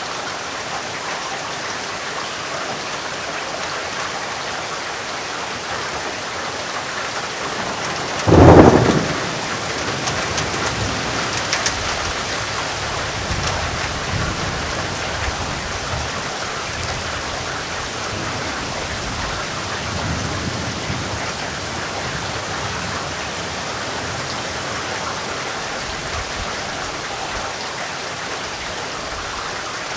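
Steady rain falling, with one sharp clap of thunder about eight seconds in, followed by low rolling rumbles and another rumble about twenty seconds in.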